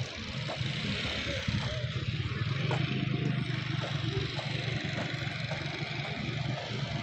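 Bus engine running close by, a steady low hum that grows a little louder around the middle, over general terminal traffic noise.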